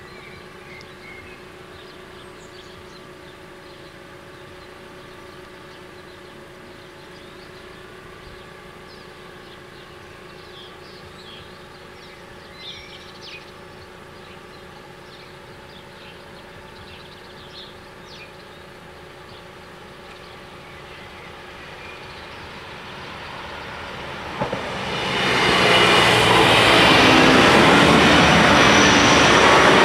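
Alstom Coradia LINT 81 diesel multiple unit approaching and crossing: its engines and wheels swell in from about 22 seconds in, with a double knock just before it reaches full loudness about 25 seconds in, and stay loud to the end. Before that, a faint steady hum with a few short chirps.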